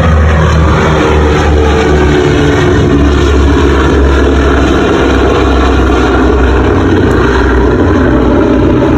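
A loud, steady engine drone with a low hum that shifts in pitch a few times.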